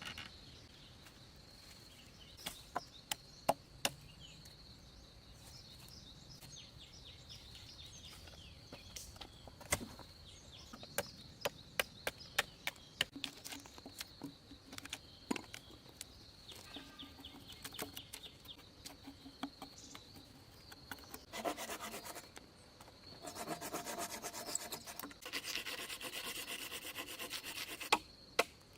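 Wood being worked by hand: scattered sharp knocks and taps, then, after a short burst about three quarters of the way in, about five seconds of continuous rasping of a tool on wood. A steady high-pitched drone runs underneath throughout.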